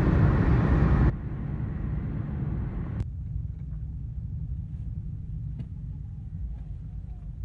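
Car noise: a steady low rumble. A louder rushing noise stops abruptly about a second in, and there is a single sharp click a couple of seconds later.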